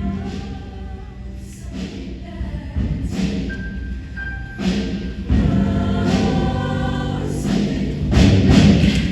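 Show choir singing full-voiced over backing music, growing louder near the end.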